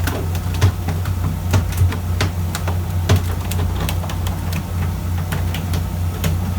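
Fishing boat's engine running with a steady low hum, with irregular sharp clicks and knocks scattered over it.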